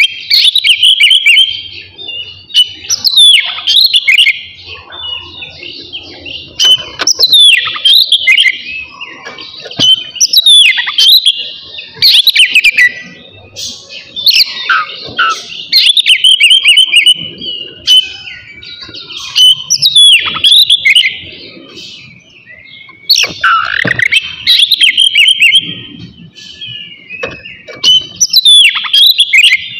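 Oriental magpie-robin singing loud whistled phrases with sharp downward sweeps and quick trills, a new phrase every two to four seconds.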